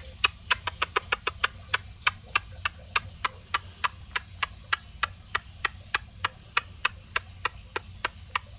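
A rapid, fairly even series of sharp clicks, about four to five a second.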